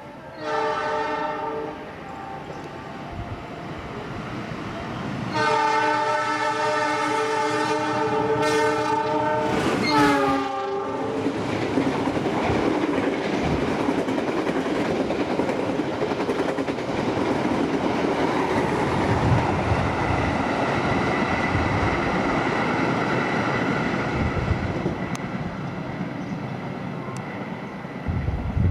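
Locomotive horn sounding a short blast, then a long chord-like blast that drops in pitch as it ends, followed by the steady rumble and clatter of a freight train's wagons rolling past.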